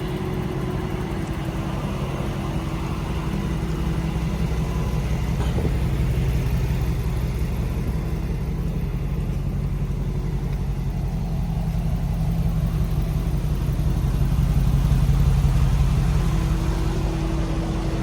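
Diesel truck engine running while under way, a steady low drone that grows louder a little past the middle and then eases off.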